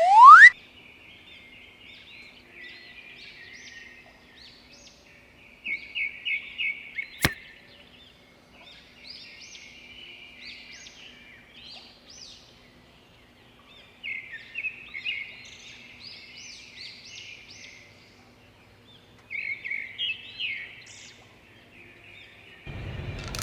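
Small birds chirping in quick runs of short notes, with a loud rising whoosh at the very start and a single sharp click about seven seconds in.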